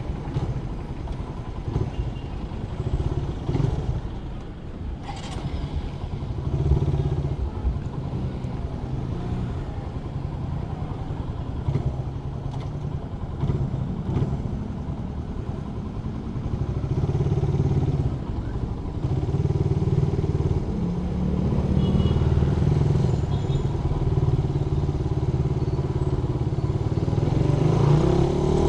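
Suzuki Raider 150 motorcycle engine running while being ridden, its note rising and falling with the throttle and growing louder over the last third.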